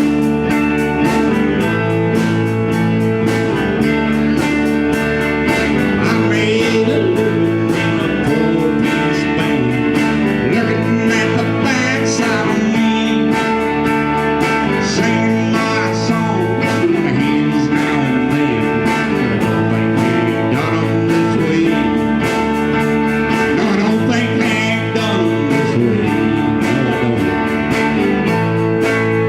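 A band playing a song led by guitars over held chords and a bass line, with a wavering lead line in the middle and again later on.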